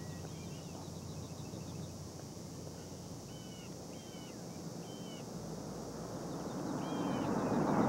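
Birds chirping in short repeated calls over a steady background hum, with faint fast ticking trills higher up. A broad rushing noise builds over the last couple of seconds.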